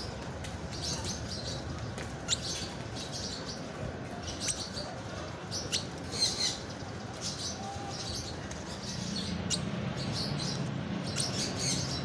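A small bird chirping: short, high chirps again and again, every second or so, with a few sharp clicks among them. A low steady hum joins in near the end.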